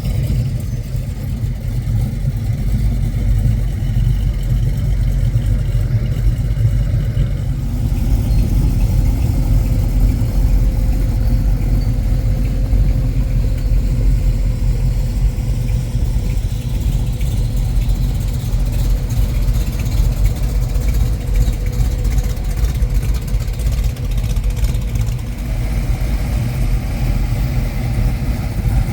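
Ford Falcon hardtop car engines running with a steady low rumble. The sound shifts about seven seconds in and again near the end.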